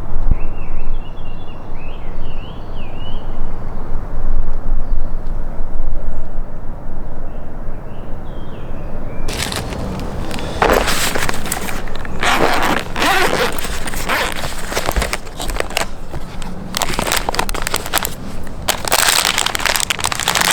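A steady low rush with small birds chirping faintly, then from about nine seconds in a wood campfire crackling and popping.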